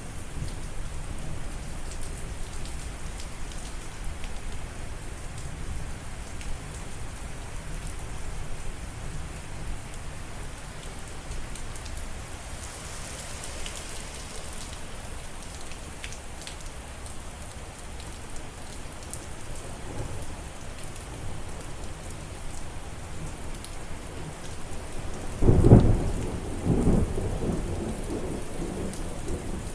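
Steady rain falling, with low rolling thunder underneath. About 25 seconds in a louder clap of thunder breaks and rumbles on for a few seconds.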